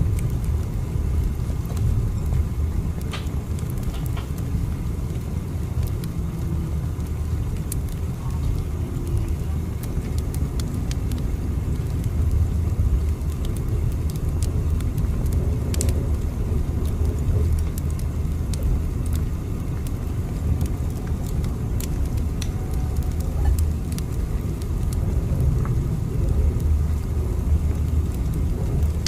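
Steady low rumble of a moving train, with scattered faint clicks.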